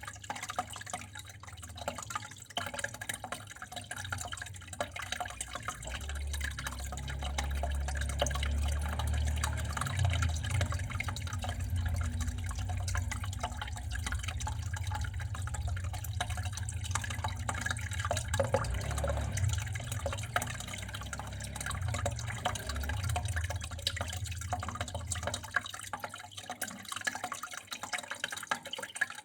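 Water flowing and dripping, a steady trickle with many small drips. A low rumble joins about six seconds in and drops away a few seconds before the end.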